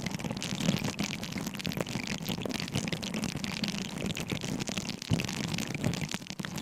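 Close-miked objects being handled for ASMR: a steady, dense run of small clicks and crackles.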